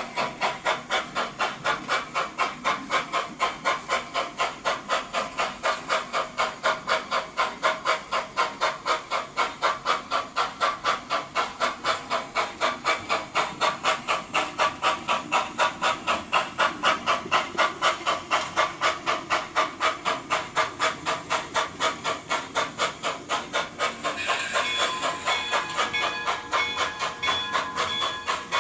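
Sound-equipped model steam locomotive chuffing at an even beat of about three chuffs a second as it runs. Near the end the chuffs fade under a steady chime-like whistle.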